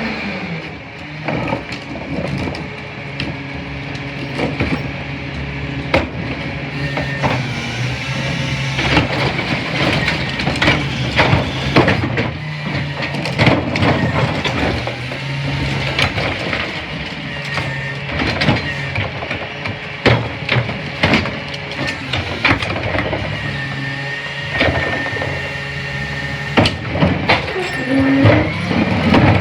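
CNG-powered McNeilus rear-loader garbage truck compacting a load. The engine runs steadily under the hydraulics while trash cracks and crushes in the hopper with many sharp snaps.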